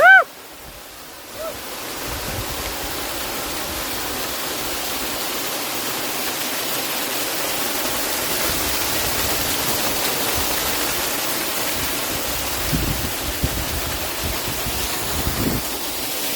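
Small waterfall's rushing water, a steady even hiss that comes in about two seconds in and slowly swells.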